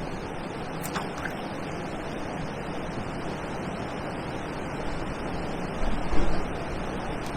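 Steady outdoor hiss of wind and water at the riverbank, with a couple of faint clicks about a second in and a brief low bump near the end.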